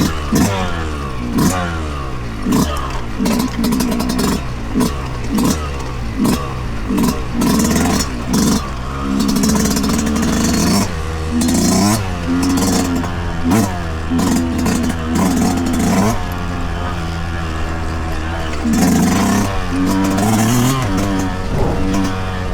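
2023 Yamaha YZ125 two-stroke single-cylinder dirt bike engine being ridden hard, revving up and easing off over and over, about once a second, with short clatters in between.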